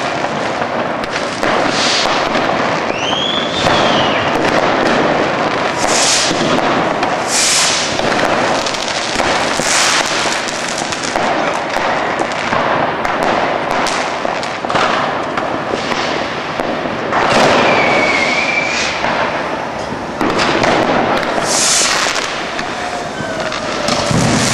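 Fireworks and firecrackers going off in a dense, unbroken barrage: overlapping bangs and crackling, with a short whistle twice.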